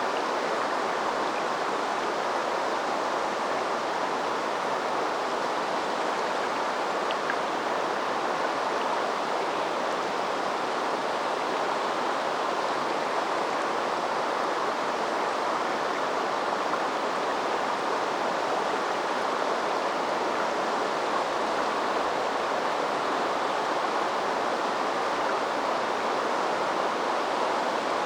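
River water flowing over stones: a steady, even rush of running water.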